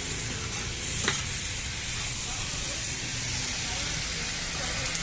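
Food sizzling in oil on a flat iron tawa, a steady frying hiss, with a single sharp tap of a spatula against the pan about a second in.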